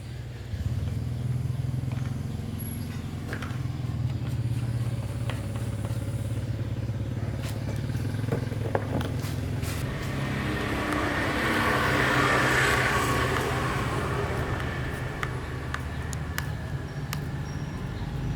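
Small petrol lawn mower engine running steadily, growing louder for a few seconds around the middle.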